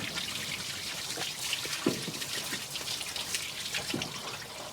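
Water running and splattering out of a truck's cooling system as it is flushed clean, a steady trickle with scattered drips and splashes.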